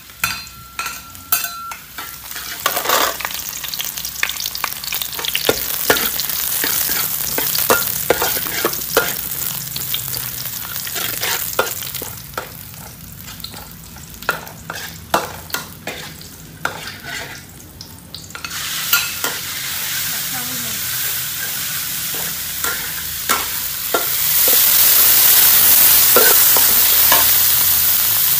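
Diced pork and garlic sizzling in a metal wok, with a metal spatula clicking and scraping against the wok and the plate. The sizzle swells about two-thirds of the way through and gets louder again near the end.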